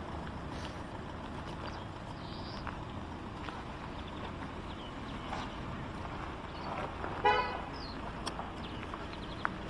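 A car horn sounding one short toot about seven seconds in, over a steady hum of background noise.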